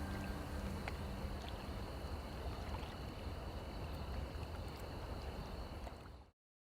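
Steady rushing background noise with a low rumble, which cuts off abruptly into silence about six seconds in.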